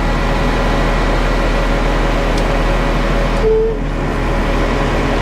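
Concrete mixer truck running steadily at a slow crawl, a constant engine drone with a strong low hum. A brief single tone sounds about three and a half seconds in.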